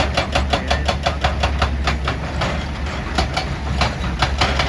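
Excavator-mounted hydraulic breaker hammering rock in rapid, even strikes of about nine a second, over the steady low running of the excavator's diesel engine. After about two seconds the hammering slows to scattered, irregular strikes.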